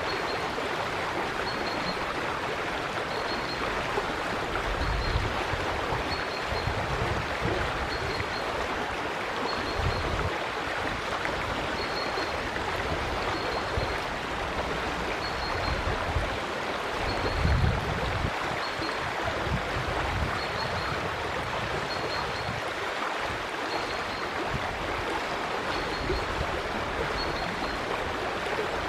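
River water flowing steadily, with a faint high chirp repeating about once a second and a few low rumbles now and then.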